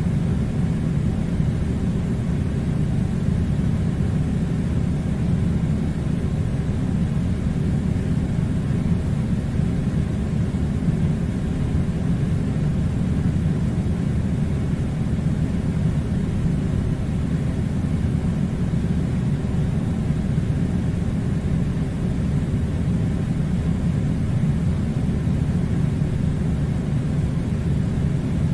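Steady low rumbling noise that holds at one level throughout, with no distinct events.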